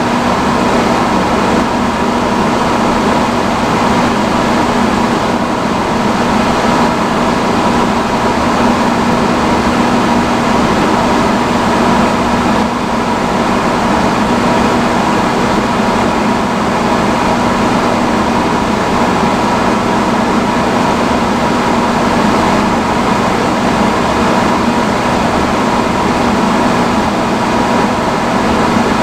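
Vintage salon hood hair dryer running on its highest setting: a loud, steady blower whir with a constant hum.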